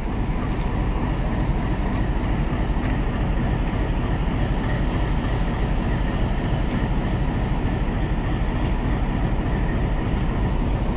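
A train running on the tracks close by: a loud, steady rumble that neither builds nor fades.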